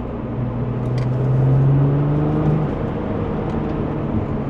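Porsche 996 Turbo's twin-turbo flat-six pulling under acceleration, its pitch rising for about a second and a half, then falling away abruptly a little past halfway as the throttle is lifted, and running on steadily at lower revs.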